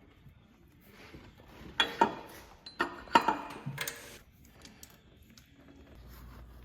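Metal clinks and knocks of hand tools against engine parts during a tractor water pump replacement, a cluster of sharp clinks between about two and four seconds in.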